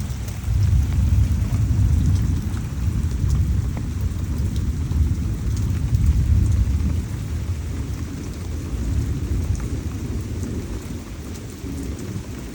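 Heavy tropical rain falling, with scattered drips, under a long low rumble of thunder that swells about half a second in and slowly fades.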